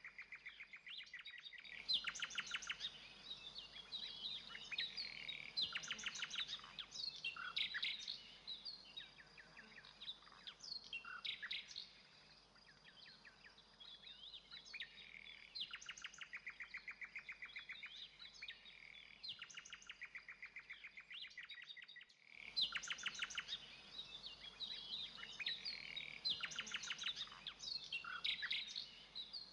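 Common nightingale singing: varied phrases of fast repeated notes and rattling trills with short pauses between them. A thin steady high tone runs underneath.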